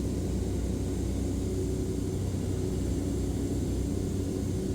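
Steady drone of a small propeller airplane's engine and propeller in flight.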